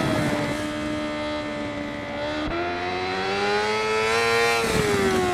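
Racing motorcycle engine at high revs: one high, steady engine note that steps up about halfway through, climbs a little more, then eases off near the end.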